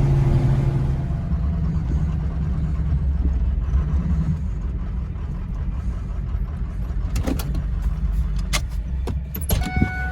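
Vehicle engine and road rumble from inside the cab while driving, a steady low drone. A few sharp clicks and knocks come near the end, and the rumble drops away just as it closes.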